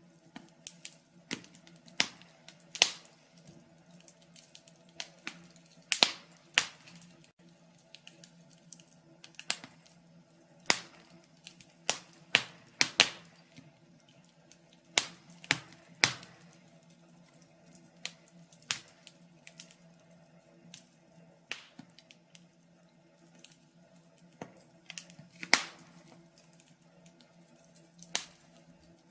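Wood fire crackling: irregular sharp pops and snaps at an uneven pace, a few much louder than the rest, over a faint steady low hum.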